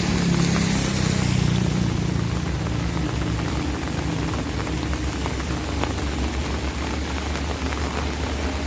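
Rain pattering on an umbrella, with scattered sharp drop ticks. A vehicle's engine hum is loud at first and fades away over the first two or three seconds.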